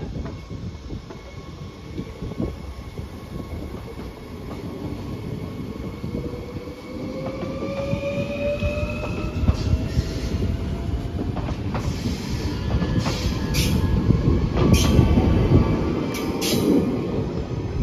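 A train running through the station and growing louder as it nears, with heavy rumble and rail noise. A thin whine rises steadily in pitch through the middle, and several sharp high squeaks from the wheels come in the last few seconds.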